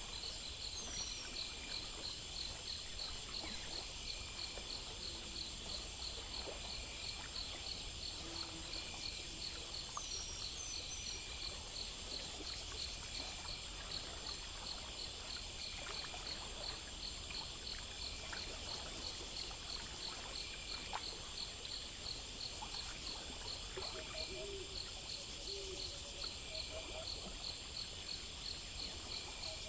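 Chorus of night insects: crickets and similar insects trilling in fast, even pulses over a steady high buzz, with short repeated chirps every couple of seconds. A few brief bird-like chirps come near the start, and lower calls join near the end.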